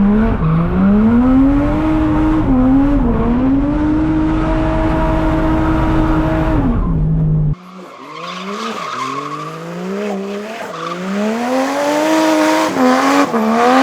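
Drift car engine revving hard through corners, held high on the throttle for several seconds with tyres squealing. About halfway in the sound cuts abruptly to a thinner, quieter engine note that climbs and dips with throttle changes before revving high again.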